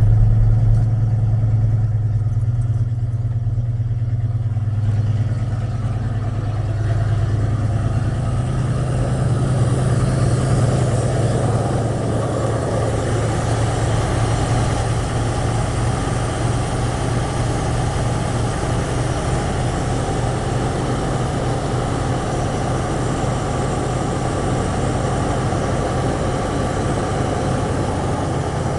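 Ford 302 V8 idling steadily right after a cold start, a little louder for the first few seconds, running on a newly fitted remanufactured Motorcraft two-barrel carburettor that still needs adjusting.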